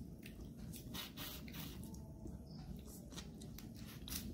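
A person chewing food close to the microphone: irregular short clicks and crunches of the mouth and teeth.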